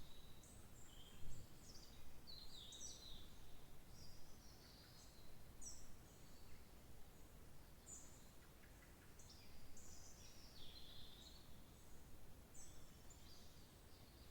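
Several songbirds chirping and trilling in quick, high phrases, faint over a low background hum. A single brief low thump about a second in.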